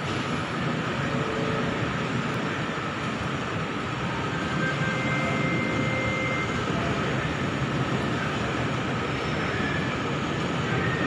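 Bombardier Innovia ART 200 light-metro train running toward the listener on a depot track: a steady rumble with faint high whining tones, a thin tone standing out for about a second and a half midway.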